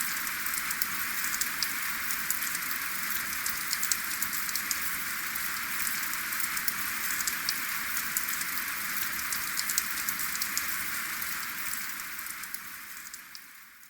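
Steady rain with no thunder, a dense hiss of falling rain scattered with sharp individual drop ticks. It fades out over the last couple of seconds.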